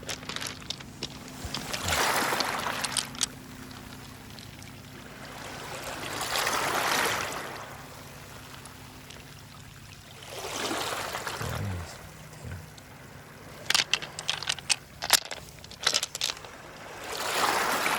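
Small waves of the incoming tide washing up a pebble shore and drawing back, one swell about every four seconds. A run of sharp clicks near the end.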